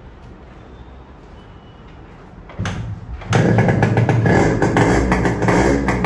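Yamaha RX100 two-stroke single-cylinder motorcycle engine running, low and quiet at first, then much louder from about three seconds in with rapid, even firing strokes.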